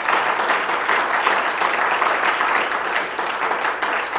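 A congregation applauding steadily: many hands clapping at once, a dense patter of claps.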